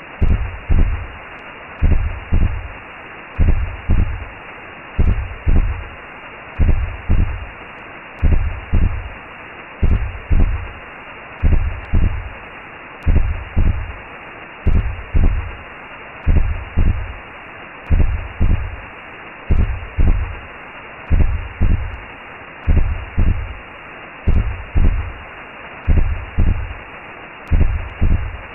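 Recreated womb sound: a steady whooshing hiss with a deep double-thump heartbeat, one lub-dub pair about every second and a half.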